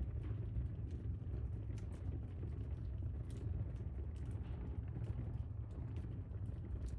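Wood fire burning in a fireplace: a steady low rumble of the flames with scattered faint crackles and pops.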